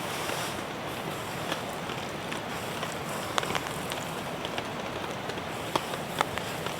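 Steady rain falling, with scattered single drops tapping sharply over an even rushing hiss and a few louder taps near the end.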